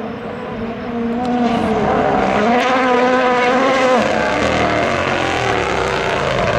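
Rally car engine under hard acceleration. The pitch climbs and holds high, then drops suddenly about four seconds in as the driver lifts or shifts, leaving a lower rumble.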